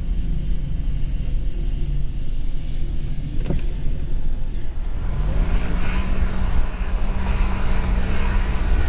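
Motor vehicle engine running steadily with a heavy low rumble; about five seconds in its pitch rises and holds higher as it speeds up. A single sharp knock sounds about three and a half seconds in.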